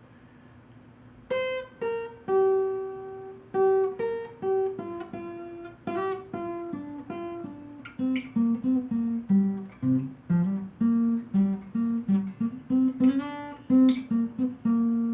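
Acoustic guitar playing a slow melody of single picked notes that begins about a second in, with a couple of strummed chords near the end and the last note left ringing.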